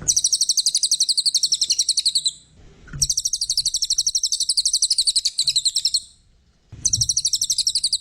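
Brown cililin (cililin coklat) songbird singing long runs of fast, high, repeated chirping notes, about ten a second. The song comes in three bouts broken by short pauses.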